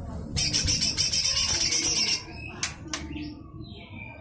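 Cucak hijau mini, a small green leafbird, giving its harsh rasping 'besetan' call: a loud, rapid, buzzy rattle lasting about a second and a half, followed by a couple of short sharp clicks.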